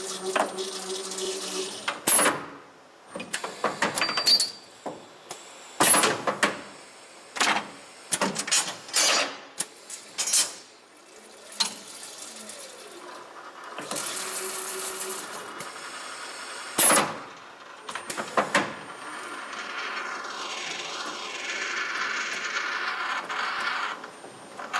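Miyano BNE-51SY CNC lathe at work. Through the first two-thirds there are many sharp clunks and short hissing bursts. Near the end comes a steadier hiss with whining tones that glide up and down in pitch.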